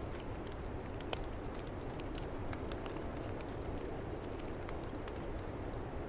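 Fireplace fire crackling, with scattered sharp pops, over a steady low rush of snowstorm wind.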